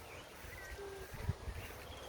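Outdoor ambience with scattered short bird calls, and a couple of low thumps about halfway through.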